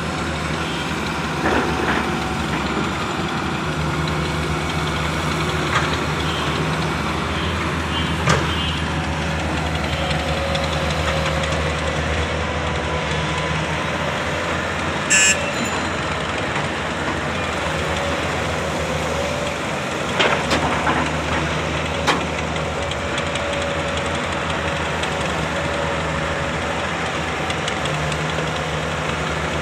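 Heavy excavator's diesel engine running steadily, with a few short sharp knocks and clanks, the loudest about halfway through.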